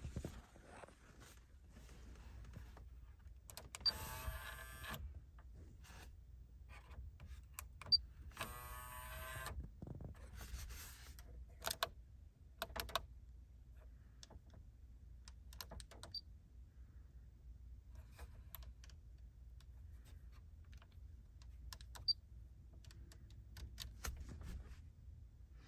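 Small electric motor whining in short spells of about a second, around four and nine seconds in, among scattered light clicks.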